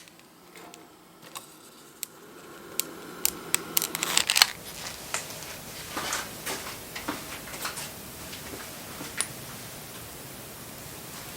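Wood bonfire crackling, with sharp snaps and pops over a steady hiss; the snaps come thickest around four seconds in.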